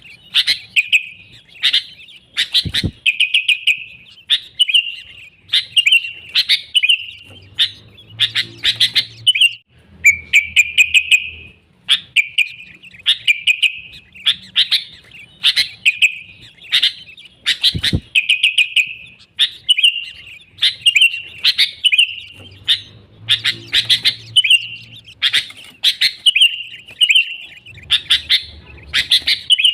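Sooty-headed bulbul (kutilang) singing vigorously and without pause: a fast run of bright, chirping phrases repeated over and over.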